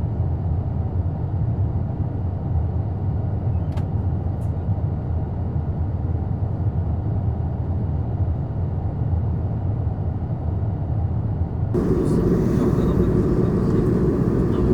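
Steady in-cabin drone of an Airbus A220's Pratt & Whitney PW1500G geared turbofan engines and airflow, heard from a passenger seat. About twelve seconds in, the sound becomes abruptly louder and brighter.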